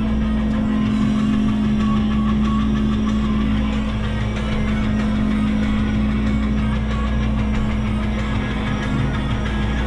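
Diesel engine of a Menzi Muck walking excavator running steadily, with an even deep hum that holds at one pitch.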